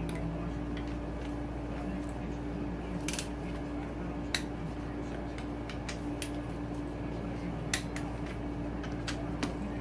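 Click-type torque wrench tightening the cylinder head bolts, giving several sharp metallic clicks a second or more apart as bolts reach the 20 ft-lb setting, over a steady background hum.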